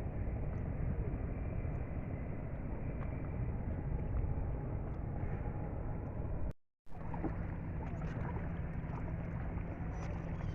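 Inflatable boat under way on choppy water: rushing wind noise and water splashing against the hull over a low steady hum. The sound drops out completely for a moment about two-thirds of the way through.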